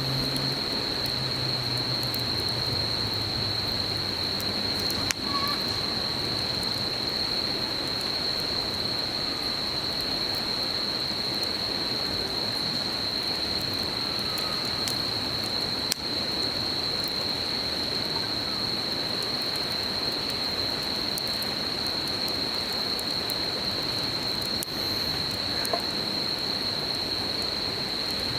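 Campfire crackling with a few sharp pops, over the steady babble of a stream and a continuous high-pitched insect trill. A low engine-like hum dies away in the first few seconds.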